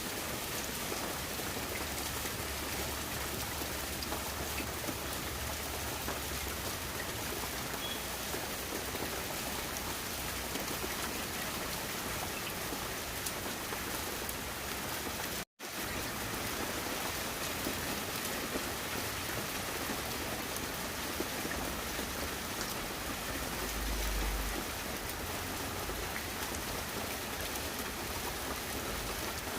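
Steady rain falling, an even hiss, which cuts out for a split second about halfway through.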